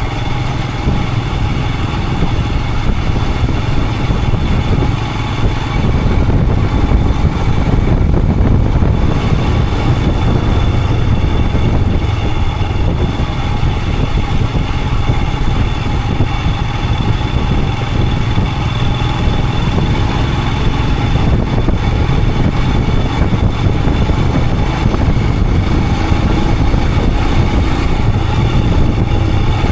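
Royal Enfield Himalayan 411's single-cylinder engine running steadily while riding, the note holding even throughout.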